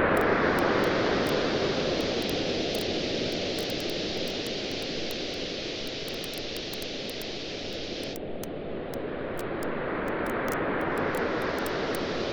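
Waves washing on a beach, swelling and receding, loudest about the start and building again toward the end, with the scattered small crackles of a wood campfire.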